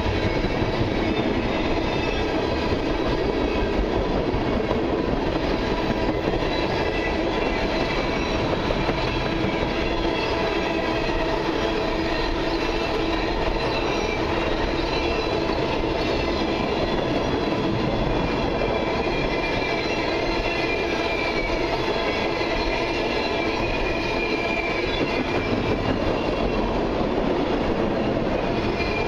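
Freight train of tank cars rolling past close by. There is a steady rumble and clatter of steel wheels on the rails, with thin high squealing tones from the wheels that waver in pitch throughout.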